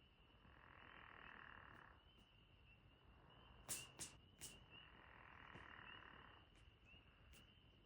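Frogs calling faintly at a pond at night: a steady high chorus of small chirps, with two longer trills, one early and one after the middle. Three sharp clicks, louder than the frogs, come about halfway through.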